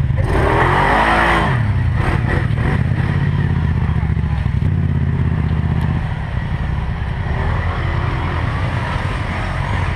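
4x4 ATV engine running under way, its pitch rising and falling, with a loud rush of noise in the first second or so.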